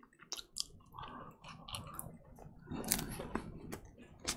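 Close-miked chewing of a mouthful of pizza, a run of short crunching clicks and wet mouth sounds, busiest about three seconds in.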